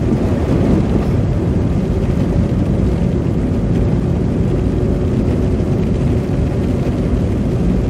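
Steady road noise inside a moving car: tyres running through slush on a snowy road, with the engine underneath, low and even throughout with a faint steady hum.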